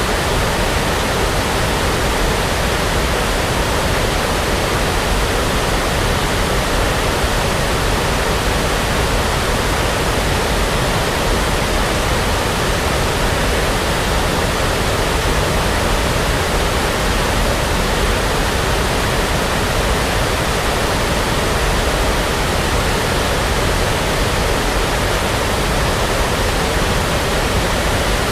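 Steady synthetic brown noise played as a sleep sound: an even, unbroken rush with no rhythm, tones or events, holding the same loudness throughout.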